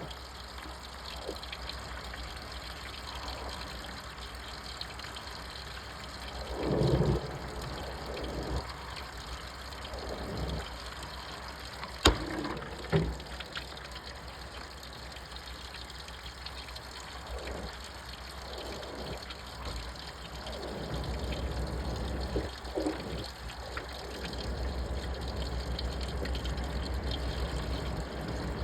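Washing machine running a wash cycle, water swishing in the drum over a steady low motor hum, with slow surges as the drum turns. There is a sharp click about twelve seconds in, and the hum grows louder and steadier about twenty seconds in.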